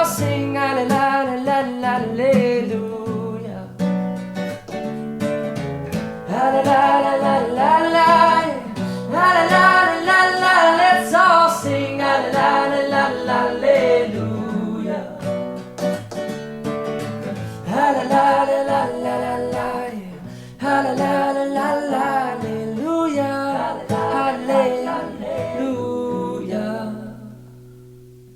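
Singing over strummed acoustic guitar, the song's closing bars; the final chord rings on and fades out near the end.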